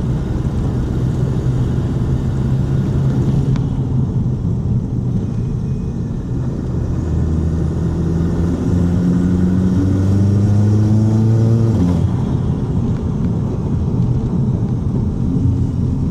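Volkswagen Mk7 Golf GTI's 2.0-litre turbocharged four-cylinder, fitted with an ARM Motorsport 4.5-inch downpipe, driving in sport mode. The engine note runs steady, then climbs for several seconds as the car accelerates and drops sharply about twelve seconds in, settling back to a steady lower note.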